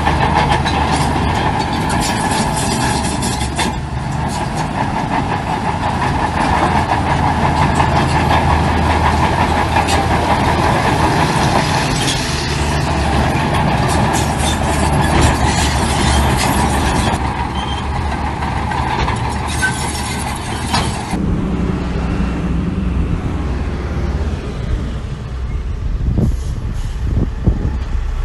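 Heavy diesel machinery running steadily, typical of dump trucks and a bulldozer at work. The hiss and clatter drop about three-quarters of the way through, leaving a lower engine note.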